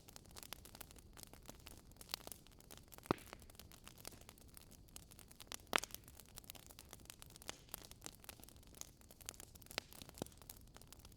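Wood fire burning in a fireplace, its logs crackling in a steady run of small irregular clicks over a faint hiss, with a few louder pops, the sharpest about three and six seconds in.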